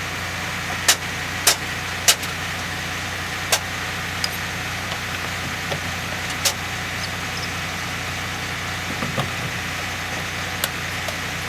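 Semi truck engine idling steadily, with several sharp clicks or knocks over it, the loudest in the first few seconds.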